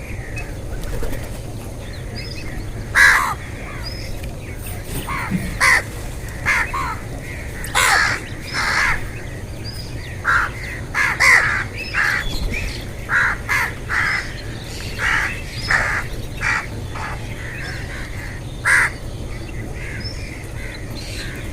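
Birds calling: around fifteen short calls at uneven intervals, some in quick pairs.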